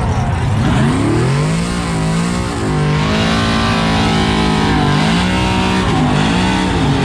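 A race vehicle's engine revving hard at a drag race. Its pitch rises about a second in, holds high with small wobbles, and dips twice near the end.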